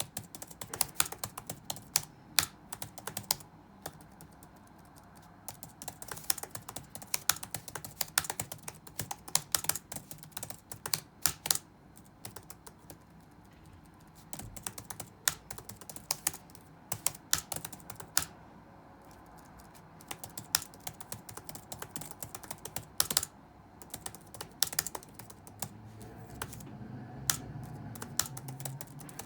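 Touch-typing on a computer keyboard: fast runs of keystrokes broken by short pauses. Near the end a low background rumble rises under the typing.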